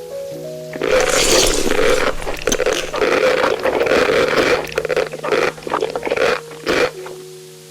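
Loud, irregular scraping and rustling with sharp clicks for about six seconds, over soft background music of held, stepping notes.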